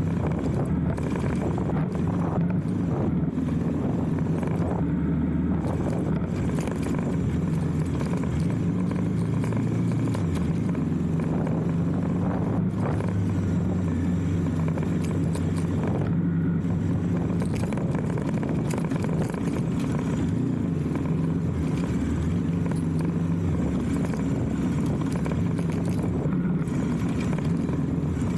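Motorcycle engine running steadily under way, its pitch shifting a little, with scattered light clicks and rattles.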